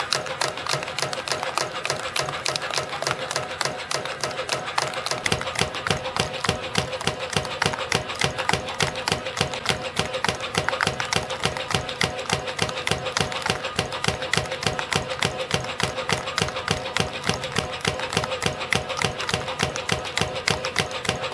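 YHM CF-310 CNC spring coiling machine running, forming 0.6 mm wire into variable-diameter compression springs: a rapid, even clicking about three to four times a second over a steady hum. The clicks grow stronger about five seconds in.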